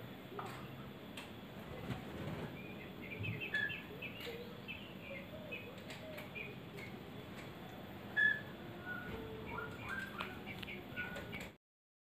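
White-rumped shama (murai) giving short, scattered chirps with a few clicks, faint over a low hiss; it all stops suddenly near the end.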